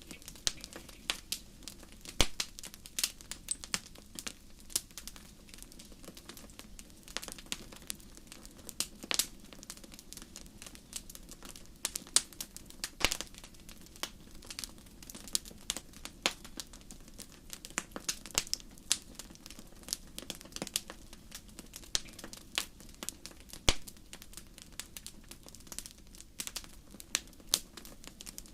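Campfire crackling: irregular sharp pops and snaps, some much louder than others, over a steady low rush of the burning fire.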